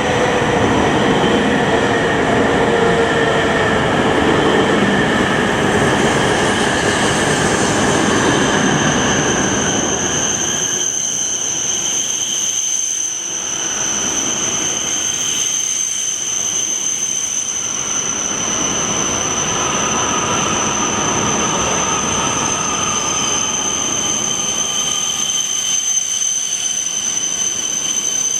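Shinkansen train pulling into the platform, its wheels and motors loud at first with a whine that slowly falls in pitch as it brakes, then easing after about ten seconds. A steady high-pitched whine runs throughout, and the train sound swells again near the end.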